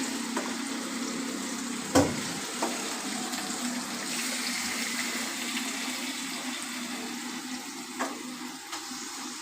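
Chicken pieces sizzling in hot ghee and ginger-garlic paste in a kadai, a steady frying hiss over a faint low hum. A sharp knock of a utensil against the pan comes about two seconds in, and a lighter one near the end.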